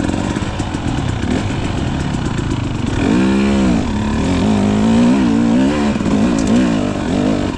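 Dirt bike engine running at low revs, blipped up and back down about three seconds in and then wavering with the throttle.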